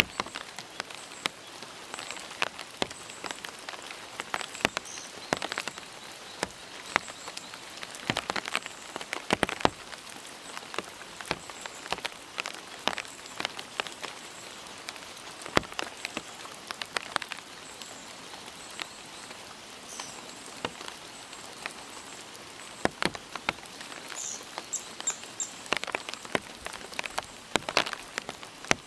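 Rain falling, with drops striking close by as many irregular sharp ticks over a steady hiss.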